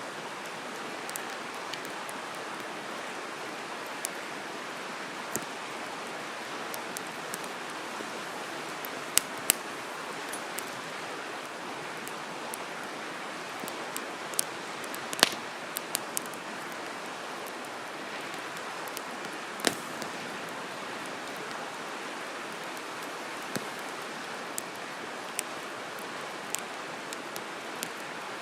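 Wood campfire crackling: scattered sharp pops from the burning firewood, the loudest about halfway through, over a steady rushing hiss.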